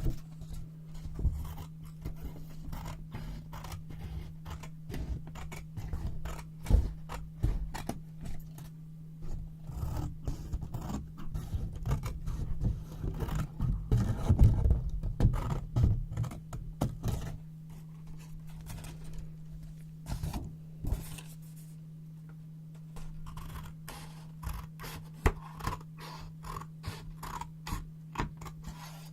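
Scissors snipping and cutting through yellow paper, close-miked: quick irregular snips with paper rustling and scraping. The cutting is busiest in the middle and thins out to a few scattered snips in the later part. A steady low hum runs underneath.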